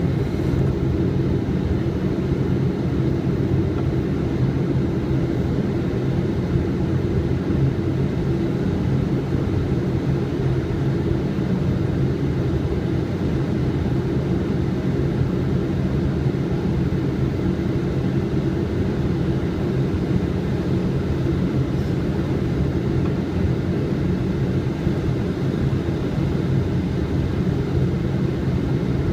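Steady flight-deck noise of a Boeing 777 on final approach with the gear down: an even rush of airflow and engine sound with a steady low hum of several tones.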